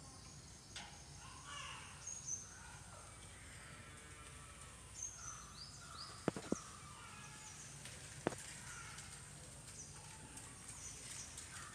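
Faint room ambience with birds chirping outside in many short, high notes, plus some lower calls. Two sharp clicks come close together a little past the middle, and a third about two seconds later.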